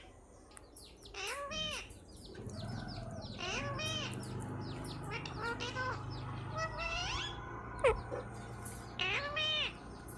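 Pet parrot calling: a string of short whistled calls that bend up and down in pitch, coming every second or two, with one sharp, loudest squeak near the end. A low steady hum runs under the middle of it.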